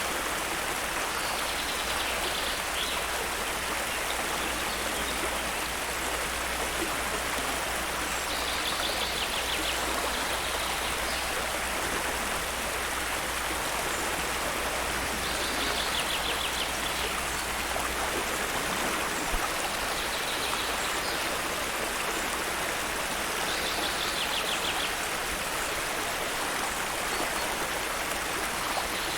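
Steady rush of water from a waterfall, with a short rapid trill rising above it about every seven or eight seconds.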